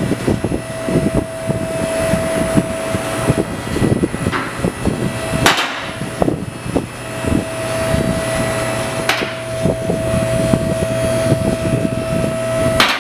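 Irregular clicks and knocks of hand tools working on metal under the car, with a few sharper clanks, over a steady mechanical hum and whine that drops out for a few seconds partway through.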